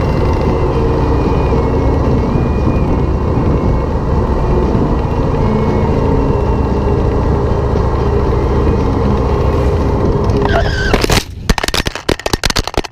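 Harley-Davidson Softail V-twin and wind noise while riding steadily, then about eleven seconds in a short screech and a rapid run of hard knocks and clatters as the motorcycle crashes and the windshield-mounted camera is battered.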